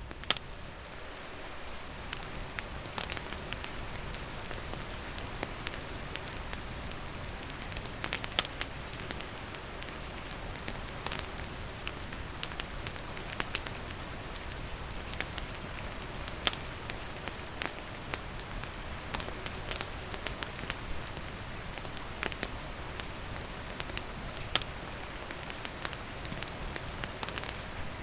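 Steady rain falling on a roof and foliage, mixed with a wood campfire crackling and popping in scattered sharp snaps throughout.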